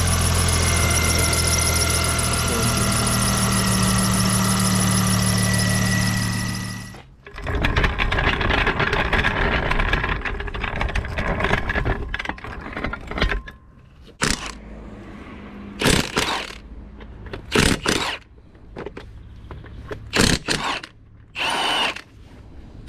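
Ford Mondeo 2.5T's Duratec five-cylinder turbo engine idling steadily for about seven seconds, with a faint high whine. Then come several seconds of clicking and rattling, and in the second half a series of short bursts from a cordless impact wrench undoing the wheel nuts.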